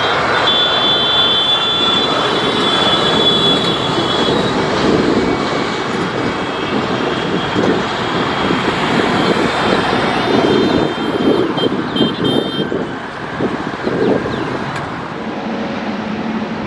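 Jet engines of a Saudia Airbus A330 airliner running loud, a steady rush with a high whine over it at times.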